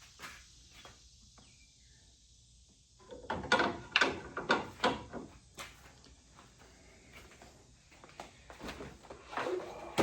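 Metal tools and car parts knocking and clattering as they are handled, in a quick run of sharp knocks starting about three seconds in and a few more near the end.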